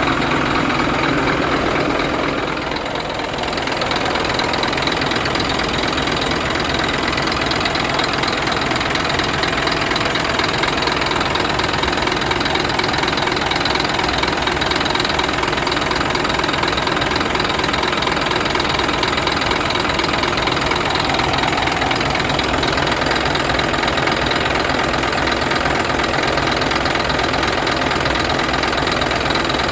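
Scania P truck's diesel engine idling steadily, dipping briefly in level about two to three seconds in.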